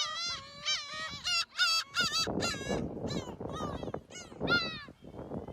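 A flock of birds calling over one another in quick, repeated honking calls. About two seconds in, a rougher, lower noise rises beneath the calls.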